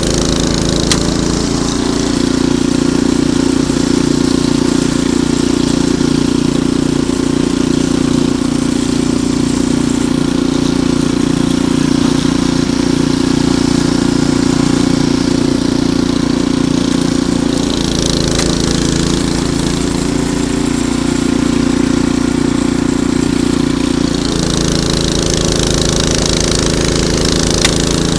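Ariens Deluxe 28 snowblower's single-cylinder engine running steadily, its note shifting a few times.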